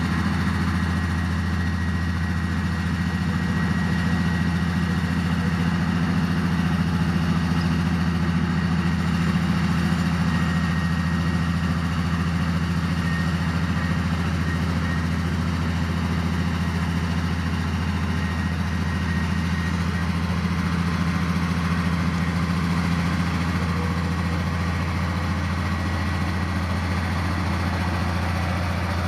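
Heavy diesel engine of earthmoving equipment running steadily at an even pace, with no revving or change.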